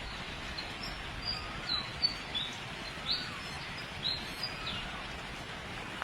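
Birds chirping: short high chirps about twice a second, the loudest about two seconds in, with a softer lower call that rises and falls every second or two, over a steady hiss of outdoor background noise.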